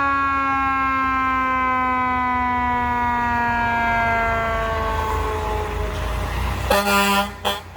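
Fire engine siren sounding one long wail that slowly falls in pitch. Near the end it is cut across by a few short air horn blasts.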